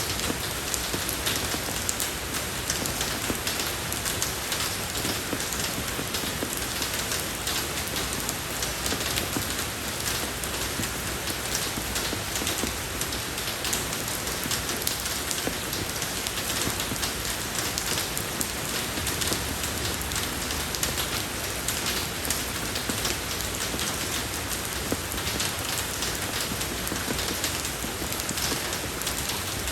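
Steady rain falling on a road, a dense even patter of drops hitting the wet surface.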